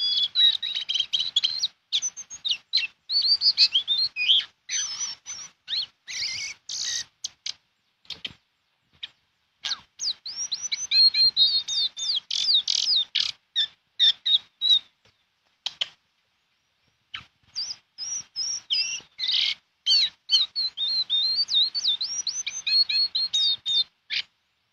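Caged female jongkangan, a small brown babbler, calling vigorously in fast bursts of high, sharp chirps and whistled notes, with two short pauses. It is the call a female gives to summon a male.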